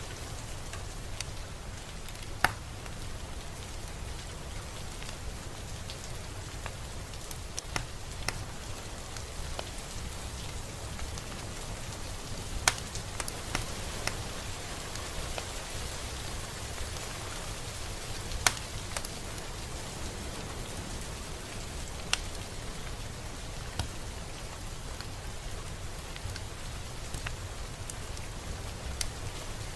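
Steady rain falling, with a low rumble underneath and now and then a sharp, louder tick of a single drop striking close by.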